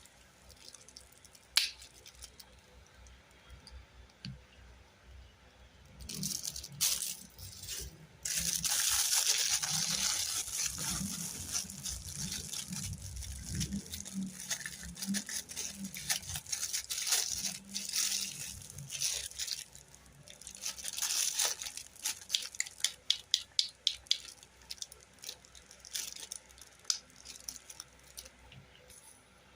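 Close-up handling of a toy and its wrapping: crinkling and tearing, thick and steady from about eight seconds in, with scattered clicks and a quick run of sharp clicks a little after the middle.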